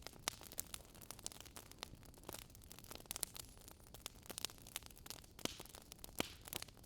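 Wood fire crackling: irregular sharp pops and snaps, several a second and uneven in strength, over a faint steady hiss.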